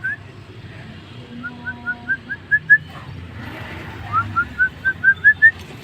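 Jalak starling whistling runs of short upslurred notes, about seven in a row at roughly five a second, each run climbing slightly in pitch, with a pause between runs.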